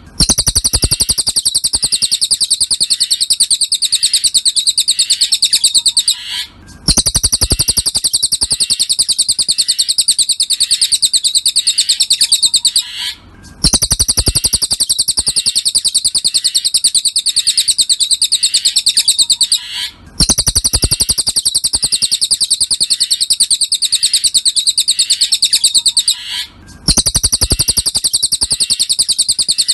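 Cililin bird song: a very rapid, high-pitched trill held for about six seconds at a time, repeated with short breaks between phrases, played as a loop for training other songbirds.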